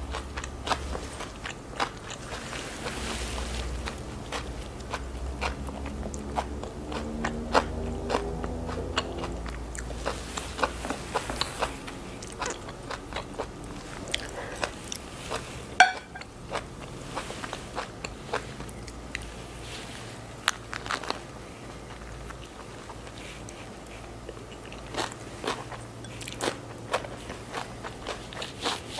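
Close-up chewing and biting of a Vietnamese fresh spring roll wrapped in rice paper with lettuce and shrimp: irregular crunches and mouth clicks as the lettuce is bitten and chewed.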